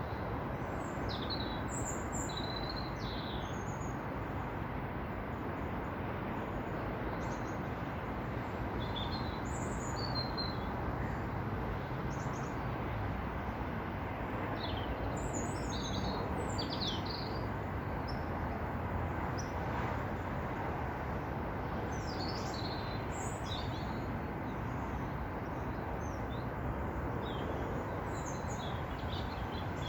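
Small birds chirping and calling in short high notes, on and off throughout, over a steady low rush of outdoor background noise.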